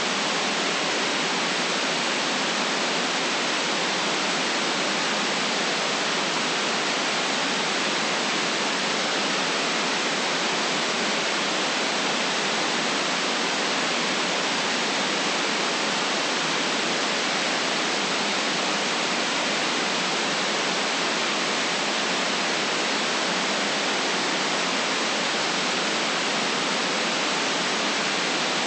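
Steady white noise: an even, unchanging hiss with no deep bass and no highest treble, and no events in it.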